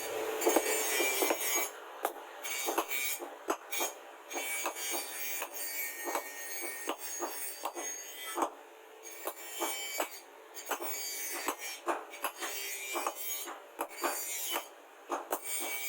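Hand tool working the rusty steel of a knife blade: irregular scraping and rasping strokes with sharp clicks and knocks in between, typical of rust removal by filing or scraping.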